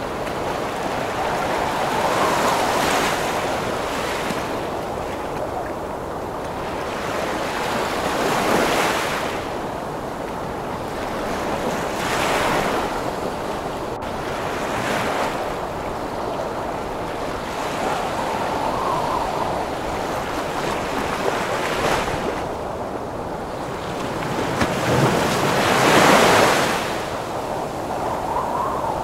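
Heavy ocean waves breaking in a wind storm: a continuous rush of surf and wind that swells every few seconds as waves break, the biggest surge near the end.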